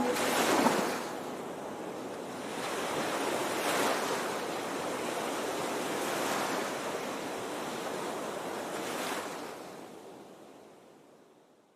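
Waves breaking and washing in, a rushing noise that swells about every three seconds and fades out near the end.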